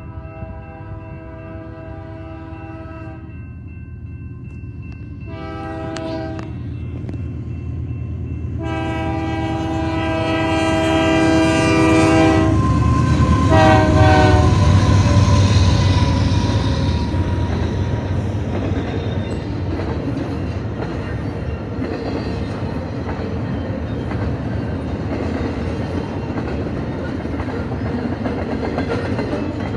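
A Canadian Pacific freight train's diesel locomotive sounds its horn for a level crossing: several long blasts and a final short one about 14 s in, the pitch dropping slightly as it goes by. The double-stacked intermodal container train then rolls past with a steady heavy rumble and clickety-clack of wheels over the rails.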